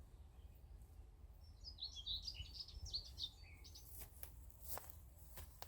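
Small birds chirping faintly: a quick run of high chirps in the middle, followed by a few faint clicks.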